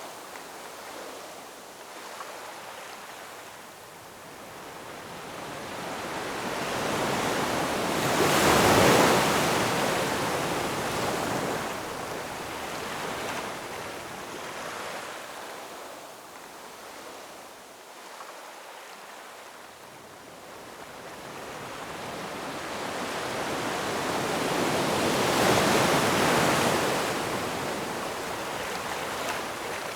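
Ocean waves breaking and washing on a shore, two big swells about 9 and 26 seconds in, ebbing between.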